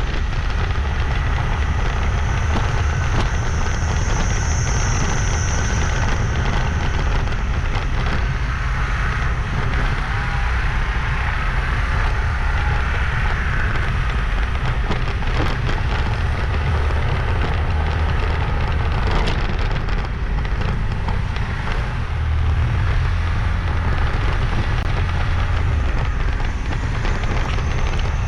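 Steady noise of a motorbike ride: engine and road noise under a heavy, uneven wind rumble on the microphone.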